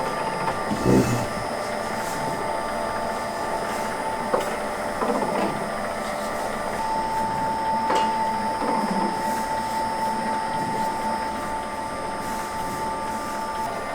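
Electric noodle-making machine running with a steady motor whine, with a low knock about a second in and a few sharp clicks later.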